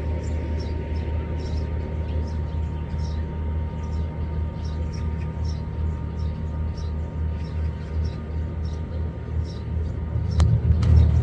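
Boat engine running with a steady low drone and faint regular ticking, swelling louder near the end.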